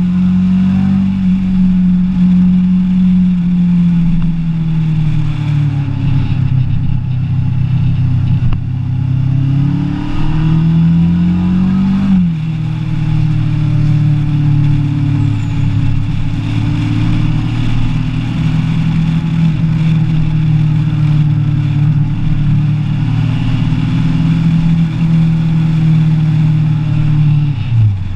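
Kawasaki ER-6n's parallel-twin engine heard from on the bike while riding. The engine note sags, then climbs under acceleration and drops suddenly about twelve seconds in with an upshift. It then runs steadily, with a brief dip near the end, over wind rush on the microphone.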